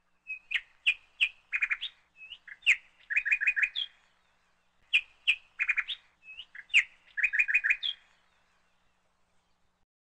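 A songbird singing: a phrase of high chirps and quick runs of notes, heard twice in the same form with a short gap between.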